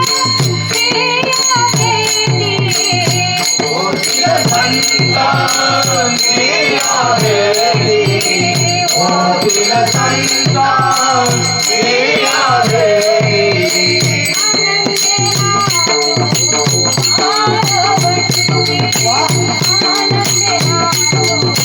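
A Marathi abhang, a devotional song, sung by a girl over percussion that keeps a steady beat.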